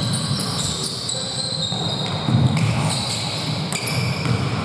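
Basketball game play in a gym: the ball bouncing on the court amid hall noise, with scattered short high-pitched squeaks.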